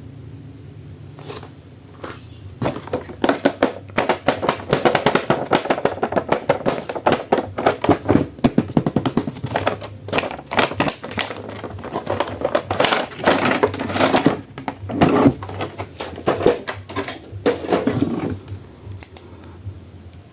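Hands handling and opening a plastic action-figure toy and its packaging: rapid, irregular crinkling and clicking that starts about two seconds in and stops near the end.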